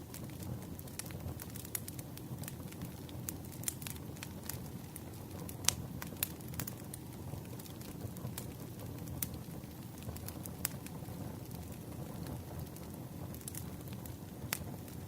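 Campfire of burning wood crackling: a steady low rush of flames with frequent irregular snaps and pops, one sharper pop about halfway through.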